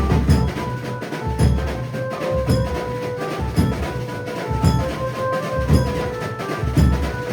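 Marathi banjo-party band music: an amplified banjo playing a stepping melody over drums, with a heavy bass drum hit about once a second.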